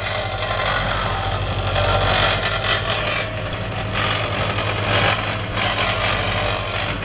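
Caterpillar CB-225D small tandem vibratory roller's diesel engine running steadily, with a low, even hum under a steady mechanical rattle.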